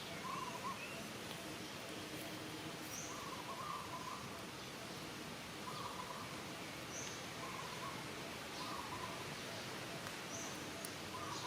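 Short warbling chirps repeat every second or two, with fainter high chirps in between, over a steady outdoor hiss.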